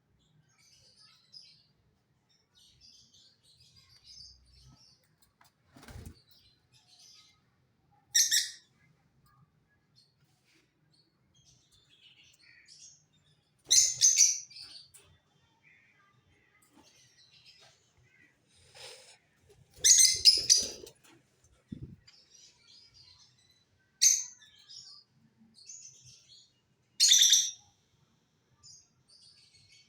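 Lutino lovebirds calling: about five loud, shrill, short chirping calls a few seconds apart, with soft twittering between them. A couple of low knocks are also heard.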